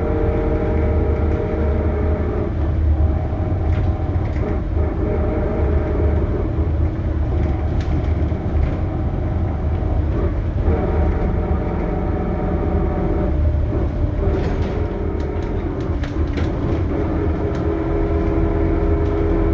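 Scania K280UB bus with ZF Ecomat automatic gearbox under way, its engine and drivetrain droning steadily over a deep rumble. The engine note shifts about halfway through and again a few seconds later, with a few sharp rattles or clicks near the end.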